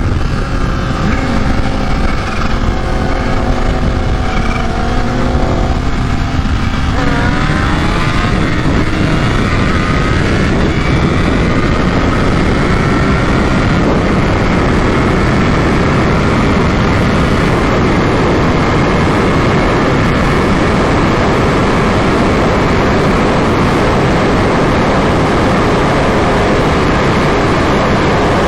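Supercharged Kawasaki H2 engine under hard acceleration, pitch climbing in steps through the gears. After about eight seconds a steady rush of wind noise takes over, with the engine's whine rising slowly underneath.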